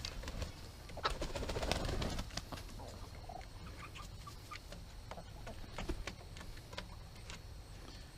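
Chickens clucking, with a louder flurry of short calls about a second in and scattered single clucks after.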